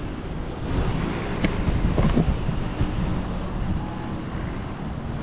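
Wind buffeting the microphone, an uneven low rumble, with a single sharp click about a second and a half in.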